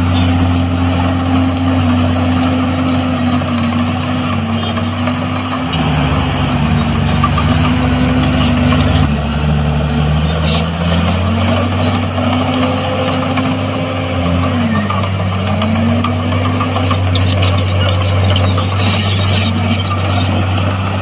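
Diesel engine of heavy earthmoving machinery running steadily, its pitch dipping and recovering several times: a longer drop about six seconds in and a brief dip about fifteen seconds in.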